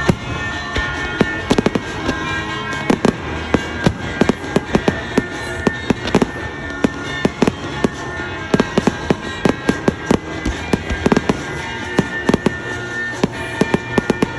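Fireworks going off in quick succession: many sharp bangs and crackles, several a second, with music playing underneath.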